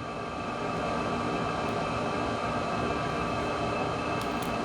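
Steady background hum and hiss of room noise, even throughout, with no distinct clicks or knocks.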